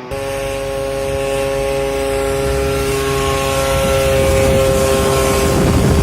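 An engine running steadily with a strong humming pitch, getting gradually louder and rougher toward the end.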